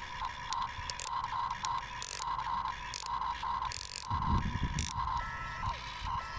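Electric gear motors of a toy RC excavator whining in short on-off bursts at one steady pitch, with scattered clicks. A low rough scraping rush comes about four seconds in.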